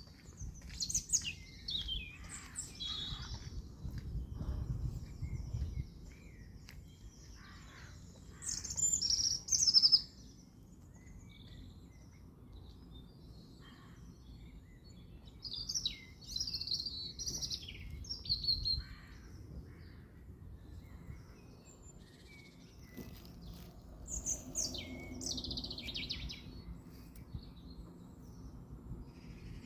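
A songbird singing short phrases of quick, gliding high notes, four times, about every seven seconds. A low rumble runs underneath.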